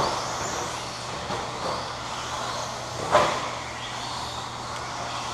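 Radio-controlled stadium trucks racing around the track, their motors whining at high pitch, with one short louder burst about three seconds in.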